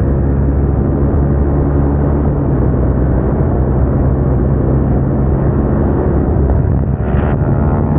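Single-cylinder motorcycle engine and aftermarket exhaust running steadily at a held speed while riding, its pitch staying nearly level, with road and wind noise.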